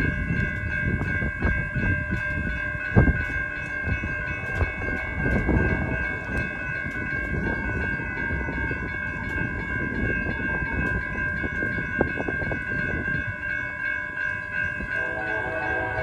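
Norfolk Southern freight train passing, its wheels clacking and knocking over the rails under a steady high-pitched tone that holds throughout. A second, lower tone joins near the end.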